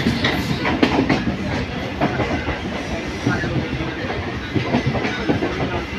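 Train running on the rails: a steady rumble with irregular clacks and knocks of wheels over rail joints.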